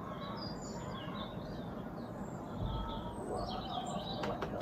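Small birds chirping and calling on and off over a steady background hiss, with a couple of sharp clicks near the end.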